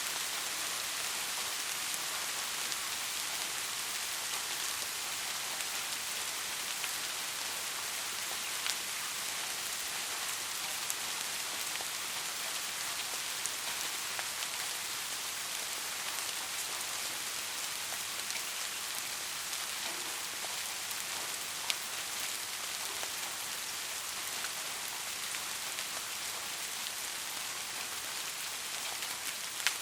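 Steady rain falling, an even hiss with a few sharper single drop ticks standing out, clearest about a third and about three-quarters of the way through.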